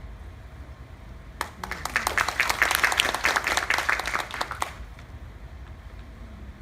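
Audience applauding for about three seconds, starting abruptly and stopping just as quickly, as a performer is called onto the stage. Many separate claps can be heard.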